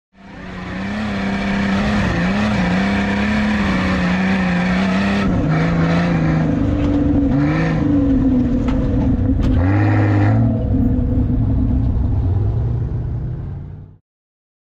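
Jeep off-road buggy's engine revving hard under load in sand, its pitch rising and falling as the throttle changes. The sound fades in at the start and cuts off suddenly near the end.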